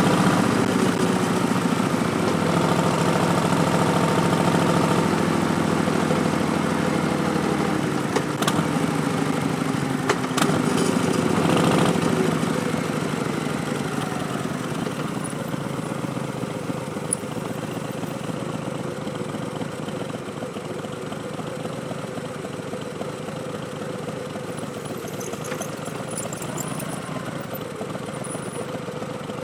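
A 2019 Harley-Davidson Street Bob's Milwaukee-Eight V-twin running through stage-1 Vance & Hines Twin Slash slip-on mufflers under way. It runs strong for about the first twelve seconds, then eases off to a quieter, steady run.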